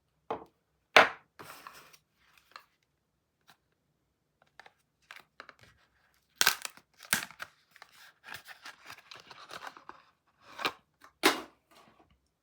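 Soap bar wrappers being torn open and unwrapped by hand: sharp tearing snaps, the loudest about a second in, with a few seconds of crinkling in the middle.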